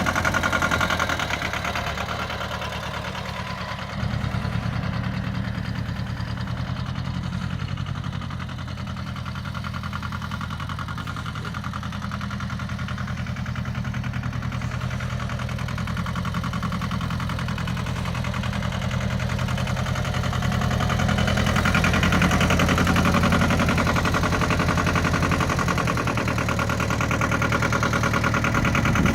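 Yanmar YM240D tractor's three-cylinder diesel engine running at a steady idle. It steps up suddenly in level about four seconds in, and is louder for a few seconds around twenty-two seconds in.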